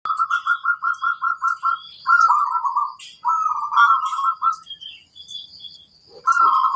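Zebra dove (perkutut) cooing: a quick run of about nine short notes, then longer rolling, warbled phrases. Faint high chirps from small birds and a thin steady high tone sit in the background.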